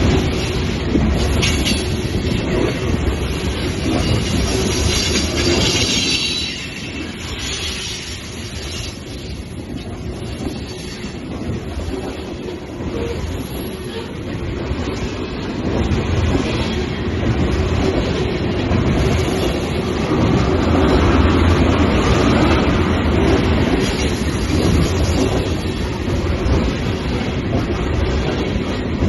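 Long freight train of ethanol tank cars rolling past, its wheels clacking over the rail joints, with some high wheel squeal in the first several seconds.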